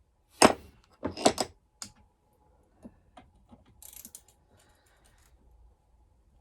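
Hand ratchet working a very tight bolt on a chainsaw's handlebar anti-vibration mount. A few loud sharp clicks and clanks come in the first two seconds, then lighter scattered ticks and a brief scrape.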